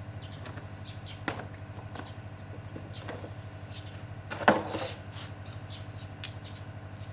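Metal tools and engine parts knocking lightly during engine assembly, over a steady low machine hum. There are a few small clinks, and one loud clank with a short ring about four and a half seconds in.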